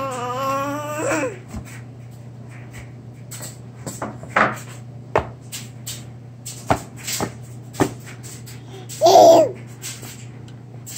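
Baby babbling: a drawn-out sliding squeal at the start and a short loud vocal burst near the end, with scattered sharp clicks and taps in between. A steady low hum runs underneath.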